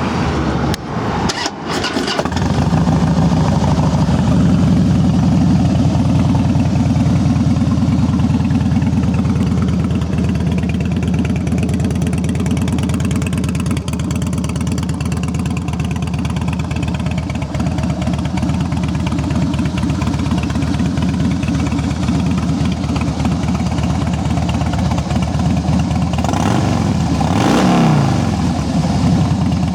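2007 Harley-Davidson Softail Deluxe's fuel-injected 96-cubic-inch V-twin with Vance & Hines pipes cranking on the starter and catching about two seconds in. It then idles steadily, and the revs rise and fall briefly near the end.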